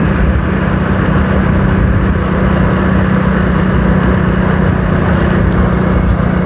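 Motorcycle engine running at a steady pace while riding, a constant hum under an even rushing noise, with one faint tick a little after five seconds.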